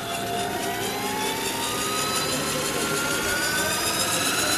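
Radio-controlled model helicopter spooling up, its high whine climbing slowly and steadily in pitch as the rotor gains speed.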